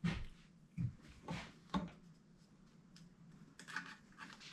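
A few faint, short knocks and rustles of hands handling the diesel heater's parts and hoses, spaced out over the first two seconds, with light scuffing near the end.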